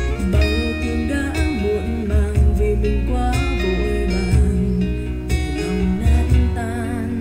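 Song with guitar, a singing voice and a heavy bass beat, played back through a JBL PartyBox party speaker in a sound test.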